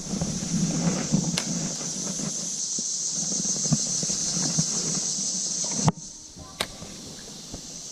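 Steady high-pitched insect drone over a rushing creek, with scattered knocks and clicks. About six seconds in it cuts off abruptly to a quieter background with faint music.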